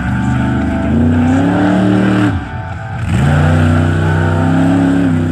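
Monster truck engine revving hard at full throttle, its pitch climbing, dropping off sharply for a moment about two and a half seconds in, then climbing again and holding high.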